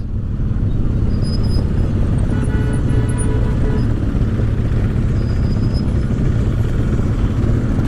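Motorcycle engines running steadily as a group of riders moves off together.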